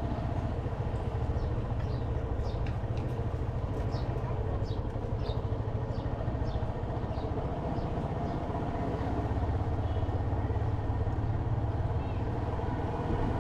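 Motorcycle engine running steadily while riding, a continuous low rumble, with a run of short high chirps in the first half.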